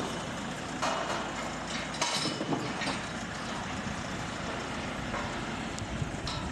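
Steady outdoor noise like traffic, with a few brief louder bursts.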